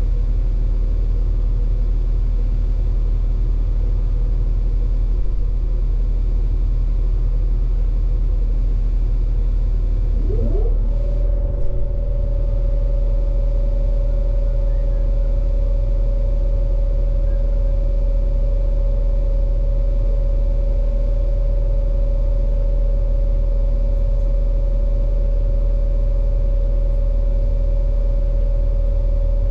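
Stopped passenger train's on-board machinery running with a steady low rumble. About ten seconds in, a motor whines up in pitch and settles into a steady hum.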